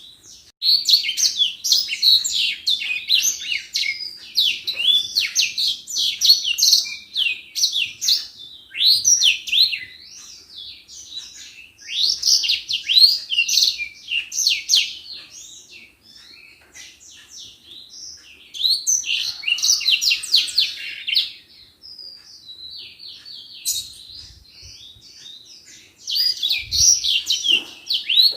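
An edelsanger (grey singing finch) singing its rapid, busy twittering song in long loud phrases several seconds each. Between the phrases come quieter stretches of scattered single notes.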